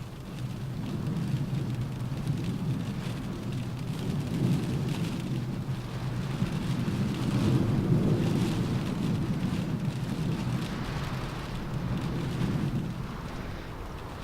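Rain pattering on a car roof with a deep wind rumble beneath it. The rumble swells to its loudest just past the middle and then eases off.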